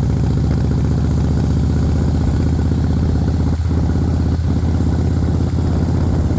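Motorcycle engine running steadily with an even low drone.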